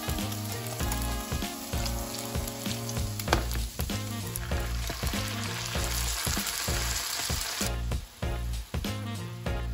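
Tamago egg tofu rounds and chopped garlic frying in oil in a nonstick pan, sizzling steadily, with background music with a steady beat. The sizzle cuts off suddenly near the end.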